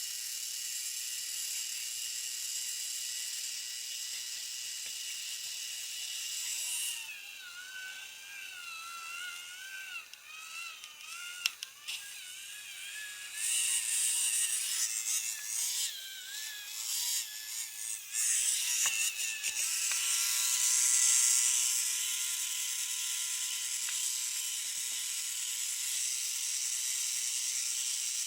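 Small DC geared motor drill with a 3 mm bit running at 6 V, a high whine that wobbles and sags in pitch as the bit bores into wood, with a gritty hiss from the cutting; the sound changes several times as the load comes and goes.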